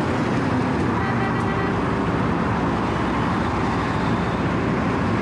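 Wirtgen W 120 CFi cold milling machine running steadily, its diesel engine and cutting drum grinding through the shoulder pavement, where it is cutting straight through concrete overpour.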